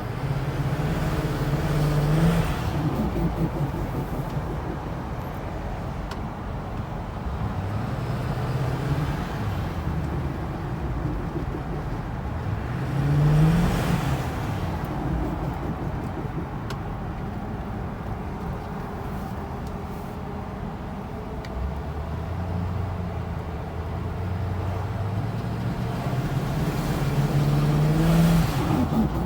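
A 2010 Ford F-350's 6.4 L Power Stroke V8 turbodiesel pulling under throttle; its note rises and falls through three pulls. At the top of each pull, as the throttle lifts, there is a brief noisy turbo flutter (compressor surge).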